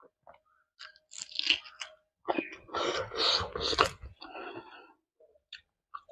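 Close-miked chewing with crunching and wet mouth clicks: a short burst of crunching about a second in, a louder, longer stretch of crunchy chewing in the middle, then a few soft clicks.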